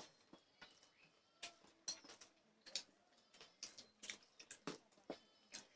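Faint, irregular clicks and taps of eating by hand: chewing and food being scooped from plates.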